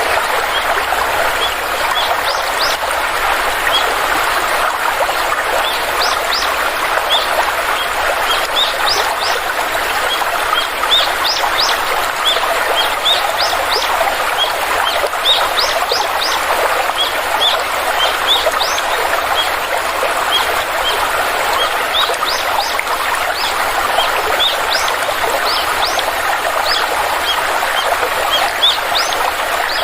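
Steady rush of flowing stream water, with small birds chirping over it: many short, quick, high chirps coming in clusters throughout.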